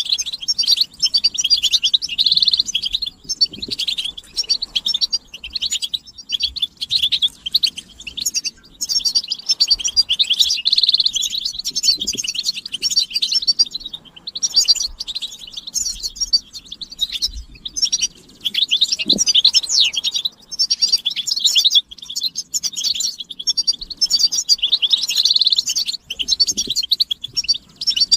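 European goldfinches twittering and singing: quick, dense runs of high chirps and trills, broken by brief pauses every few seconds. These are the goldfinch's excited twitter and mating calls, used to stir males into song.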